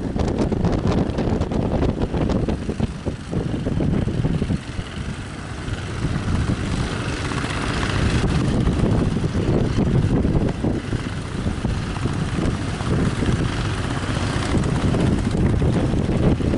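Strong gusting wind buffeting the microphone, a loud, uneven rumble that rises and falls throughout.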